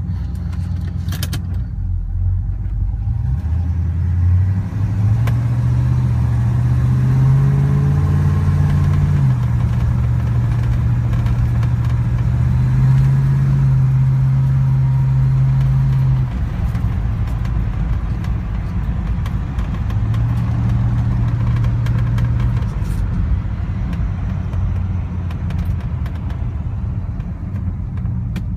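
1970 Pontiac GTO Judge's V8 running, its revs raised and held for a few seconds three times, then dropping back to idle.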